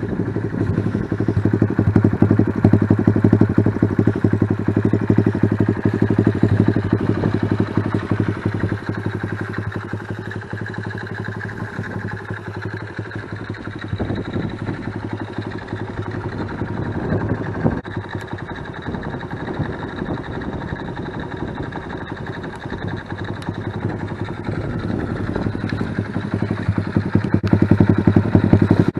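Small single-cylinder motorcycle engine of a Honda Magna 88 running at idle with a steady, even throb, a little louder for a few seconds near the start and again near the end.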